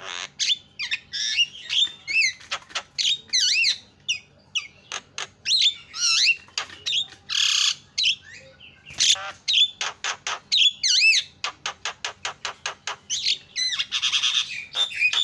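Javan myna (jalak kebo) calling in a loud, varied chattering song: whistled rising and falling notes, rapid runs of clicking notes, and a harsh screech about halfway through and again near the end.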